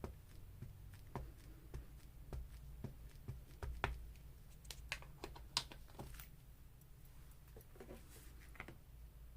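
Light, irregular tapping and clicking of a rubber craft stamp being dabbed on an ink pad and pressed onto paper.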